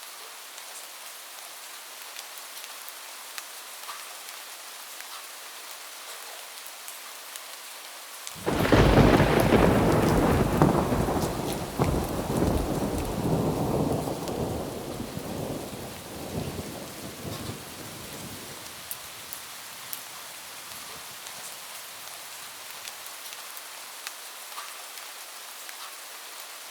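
Steady rain pattering, with a sudden loud clap of thunder about a third of the way in that rumbles and rolls away over about ten seconds, leaving the rain alone again.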